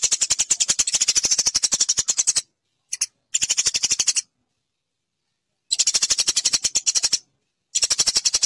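Eurasian tree sparrow giving fast chattering chirps, about a dozen a second, in bursts of one to two seconds with short silent breaks between them.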